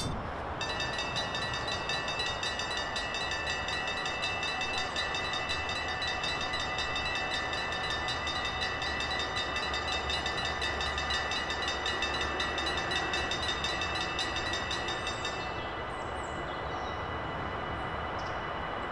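Level-crossing warning bells ringing in a fast, even, steady rhythm, over the low rumble of a passing train. The bells stop about fifteen seconds in, and the train's running noise carries on.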